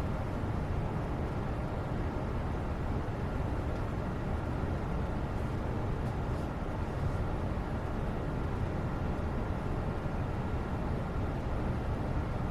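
Steady background noise, a constant low rumble with hiss above it, the video's white-noise bed. A few very faint light ticks come about halfway through.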